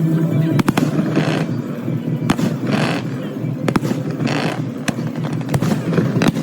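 Aerial fireworks going off: many sharp bangs and cracks at irregular intervals, with crackling hisses swelling and fading every second or so over a steady low rumble.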